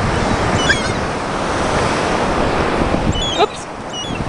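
Surf washing in, with wind buffeting the microphone, and a few short, faint seagull calls about a second in and again near three seconds.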